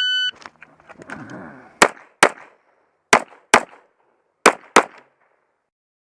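Shot timer beeps once, then a pistol fires six shots in three quick pairs, about a second apart between pairs. The beep is the start signal for the stage.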